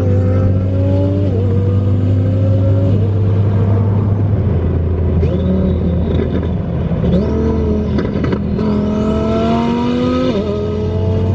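A car engine revving hard: its pitch climbs and falls back several times. A high rising whine or squeal comes in the second half.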